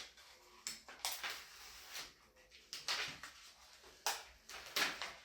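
Crinkling and rustling of a sheet of peel-and-stick vinyl paper being handled, in several short bursts about a second apart.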